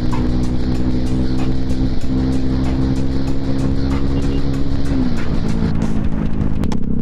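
Bajaj Pulsar NS200's single-cylinder engine running through an aftermarket twin-pipe exhaust, holding a steady engine speed while riding, then dropping in pitch about five seconds in as the revs fall.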